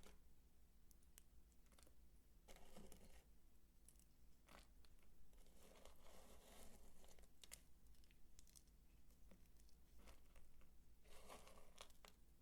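Bar soap being worked by hand, giving faint, crisp crunching and crumbling with scattered small clicks. Three longer crunches stand out: one early, a longer one in the middle, and one near the end.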